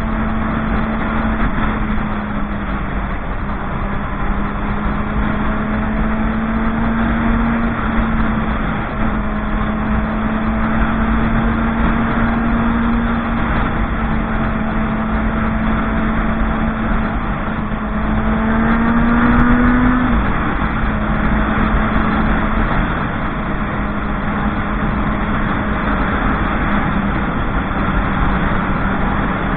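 Motorcycle engine running steadily while riding, its pitch rising briefly about two-thirds of the way through and then dropping back, over a steady low rumble.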